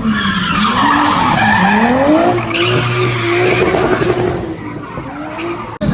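A drift car sliding under power: its engine revs rise and fall while the rear tyres squeal. The sound cuts off suddenly near the end.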